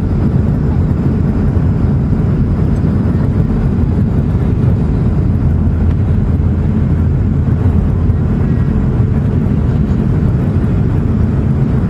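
Boeing 757-200 airliner's steady low rumble of engines and airflow, even in level throughout.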